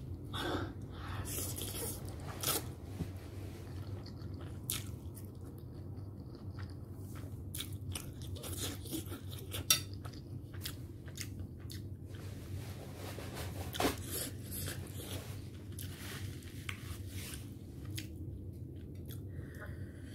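Close-miked chewing of a mouthful of spicy instant ramen noodles: scattered wet mouth clicks and smacks, with one sharper click about ten seconds in. A steady low hum runs underneath.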